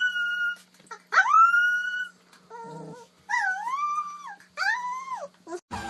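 Dog giving high, drawn-out howling whines: four calls with short gaps between them, each sliding up in pitch at the start, the last two wavering up and down.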